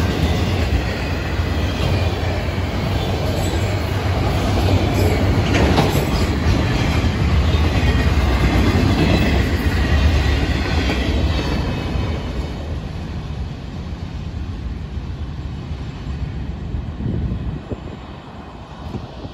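Freight cars of a Florida East Coast Railway train rolling past, with steel wheels rumbling and clattering over the rails. After about ten seconds the sound fades as the end of the train passes and moves away.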